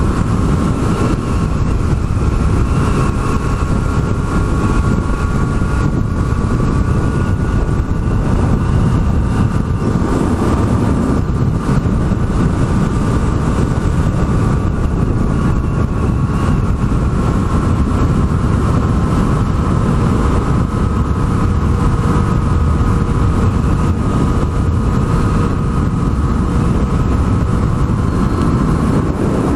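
Yamaha MT-09 motorcycle's inline-three engine running at a steady cruise, mixed with heavy wind and road rush; its pitch drifts only slowly.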